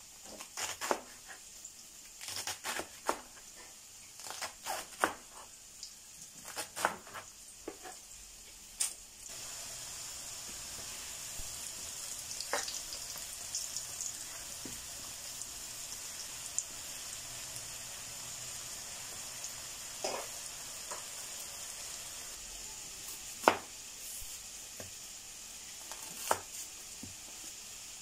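A knife cutting cabbage on a plastic cutting board gives a string of sharp knocks for the first nine seconds or so. Then saba banana chunks fry in hot oil in a pan, a steady sizzle with occasional taps and scrapes of a stirring spoon.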